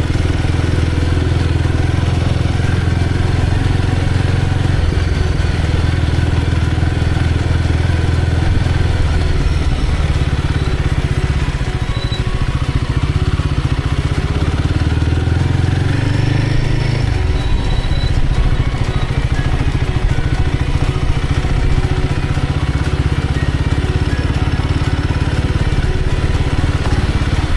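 Royal Enfield Guerrilla 450's single-cylinder engine running as the motorcycle is ridden, its note changing about five seconds in and again about seventeen seconds in.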